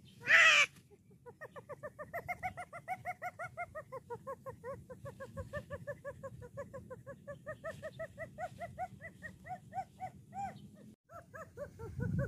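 An animal giving a fast run of short, pitched calls, about four or five a second for some nine seconds, after a brief loud burst of noise at the start.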